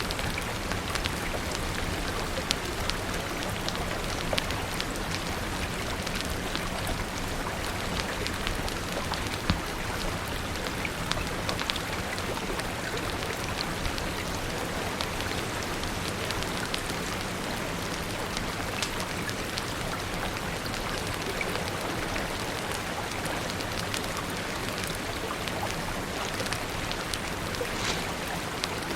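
Steady rain falling, an even hiss with many small sharp ticks and pops scattered through it.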